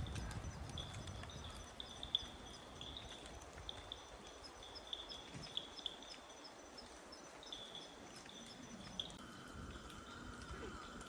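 Faint outdoor chorus of insects chirping, short high chirps repeating a couple of times a second, with a steady high buzz from another insect starting about nine seconds in.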